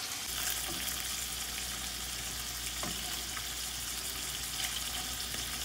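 Salmon cubes sizzling steadily in grapeseed oil in a nonstick skillet over medium heat, with a few faint pops scattered through.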